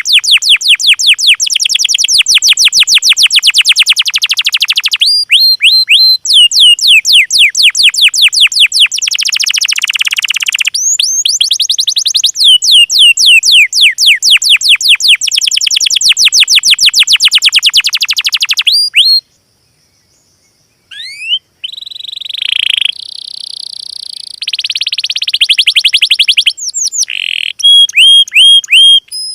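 Recorded bird song used as masteran for training cage birds. It runs as long, very fast trills of sharply down-slurred whistled notes. About 19 s in it breaks off briefly, then resumes as buzzy trills and chirps.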